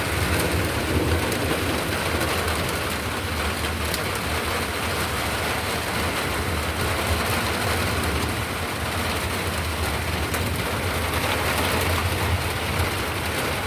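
Torrential rain pouring down in a steady hiss, with a steady low rumble underneath.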